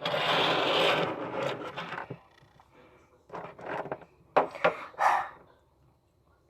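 Rubbing and scraping as objects are handled on a hard surface: a steady scratchy rub for about two seconds, then a few short knocks and scrapes.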